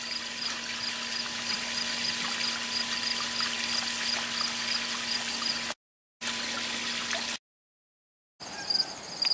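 Garden ambience: insects chirping in a fast, even pulse over a steady hiss, cutting out to silence twice in the second half.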